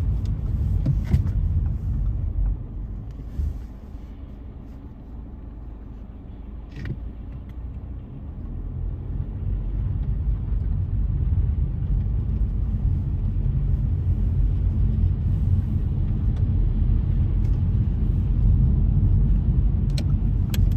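Car driving on a slushy, wet road, with low engine and road rumble. It eases off for a few seconds early on, then builds again and holds steady.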